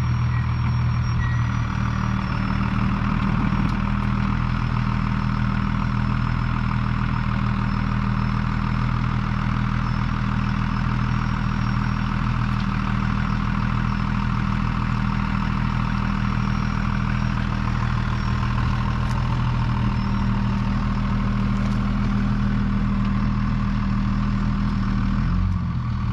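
Truck engine running steadily, a low even drone with a brief dip in pitch near the end.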